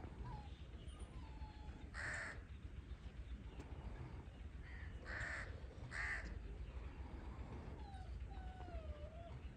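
Crows cawing: three loud, harsh caws about two, five and six seconds in, with faint thin wavering calls in between.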